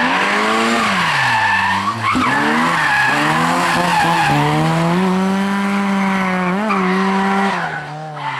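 Lada rally car's four-cylinder engine at hard throttle through a corner. The revs fall about a second and a half in, climb again, then hold high with a short lift near the middle, and drop near the end.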